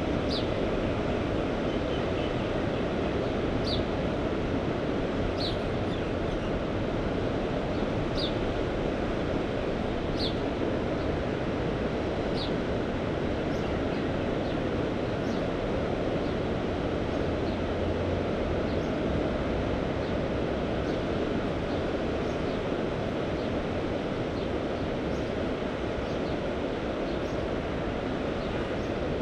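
Steady wash of sea surf and wind. Over it, a bird gives a short, high, falling chirp about every two seconds for the first dozen seconds, then fainter and less often.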